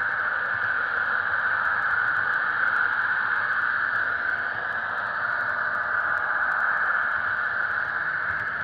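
HO-scale model train running steadily along the track, making a continuous whirring hiss with no marked changes.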